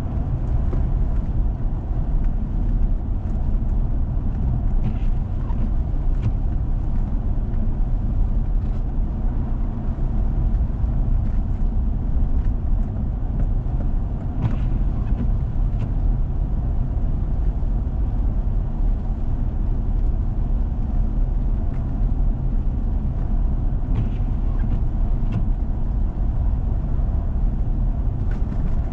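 Vehicle driving on a snow-covered road: a steady low rumble of engine and tyres, with a few faint clicks scattered through it.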